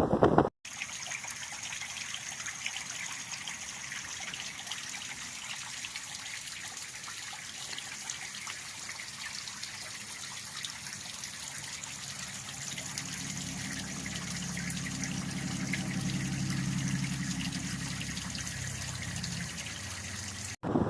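River water running in a steady rushing hiss. From about twelve seconds in, a low droning hum swells and then fades away near the end.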